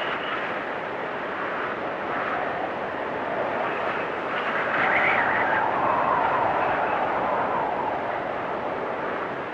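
Storm wind blowing and whistling in gusts, swelling about five seconds in and sinking lower in pitch over the next two seconds.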